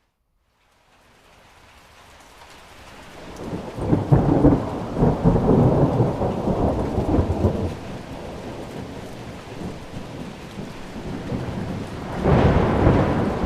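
Thunder rumbling over steady rain. The sound fades in from a brief silence, a long deep rumble peaks about four seconds in, and a second rumble swells near the end.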